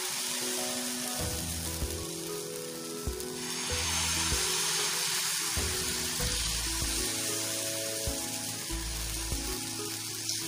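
Ragi (finger millet) dosa batter sizzling on a hot oiled pan as it is ladled on and spread out, over background music.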